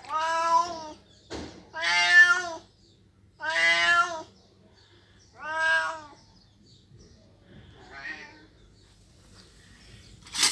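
Cat meowing, four long drawn-out meows about one and a half to two seconds apart, then a fainter call. A sharp knock or clatter comes near the end.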